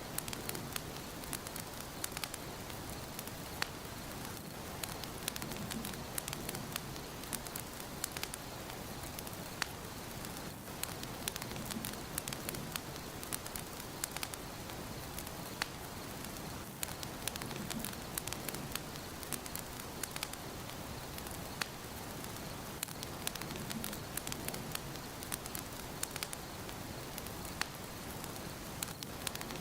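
Fire burning in a fireplace, crackling steadily: a soft hiss with frequent sharp pops and snaps.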